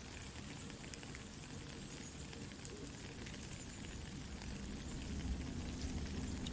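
Soft rain falling steadily, mixed with a crackling campfire: a continuous hiss dotted with scattered sharp pops, with a low rumble growing louder near the end.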